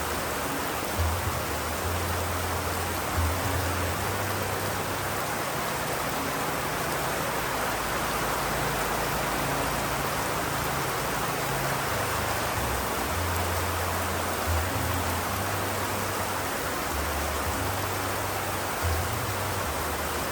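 Steady rain falling as an even, unbroken hiss. Low deep tones swell in and fade out underneath it every few seconds.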